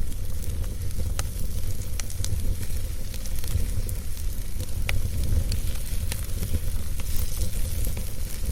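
Wood fire burning: a steady low rumble and hiss with scattered sharp crackles and pops from the burning wood.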